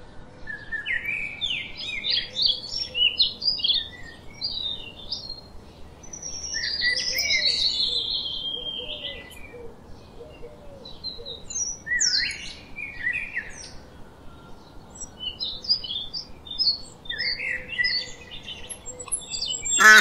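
Small birds chirping and twittering in four separate spells of calls.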